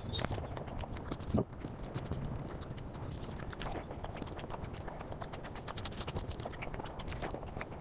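Eating sounds played at high speed: rapid, dense wet clicks of chewing and mouth sounds, with one louder knock about a second and a half in.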